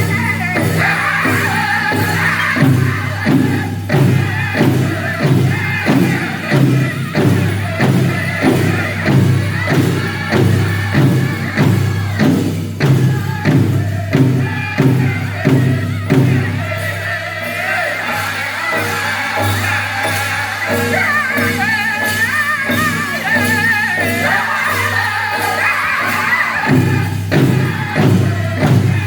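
Powwow drum group singing over the big drum: high voices over a steady beat of about one and a half strikes a second. The drumbeat drops back about halfway through while the singing carries on, and comes back strongly near the end.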